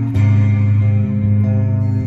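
Music Man StingRay Special electric bass played through an EarthQuaker Devices Astral Destiny octave reverb pedal: a low note is plucked just after the start and left ringing, with sustained higher tones layered above it.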